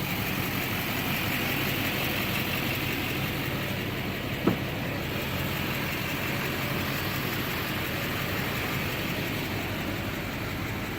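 Duramax 6.6 turbo diesel V8 of a Chevrolet Silverado dually idling steadily, with a single sharp click about four and a half seconds in.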